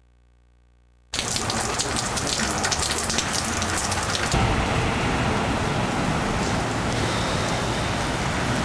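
Heavy thunderstorm rain falling in a steady, dense hiss, cutting in suddenly about a second in; the high hiss softens slightly a few seconds later.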